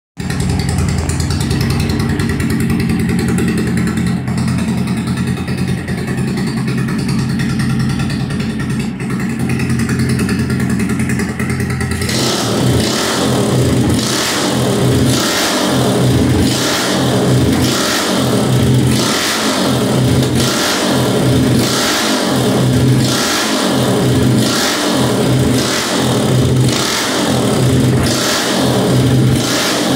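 Single-cylinder engine of a customized Yamaha 150 motorcycle running at idle with a steady low hum. About twelve seconds in the sound changes abruptly to a regular pulsing, roughly one and a half beats a second.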